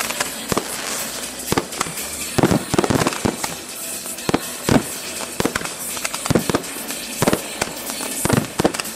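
Fireworks display: an irregular, rapid run of sharp bangs and launch thumps, about two or three a second, from rising comets and bursting aerial shells over a steady hiss.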